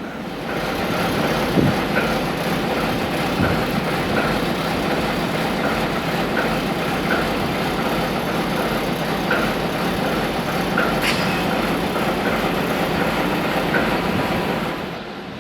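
Suburban train car running along the track, heard from on board: a steady rumble of wheels and car, with faint repeated clicks. The sound grows about half a second in and drops away near the end.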